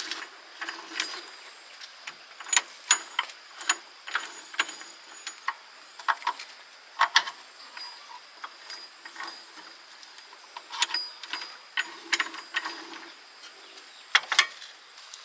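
Irregular metallic clinks and knocks of tools and parts being handled during a gearbox teardown, some with a brief high ring.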